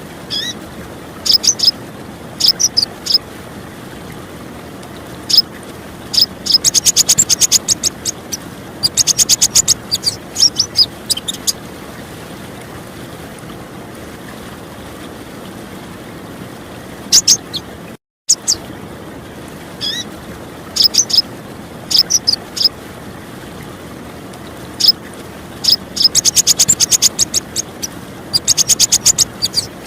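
Female purple-throated sunbird (konin / kolibri ninja) giving high, thin chirps and rapid rattling trills in bursts of about a second, over a steady rush of clear running water. The same call sequence starts over about halfway through, as in a looped recording.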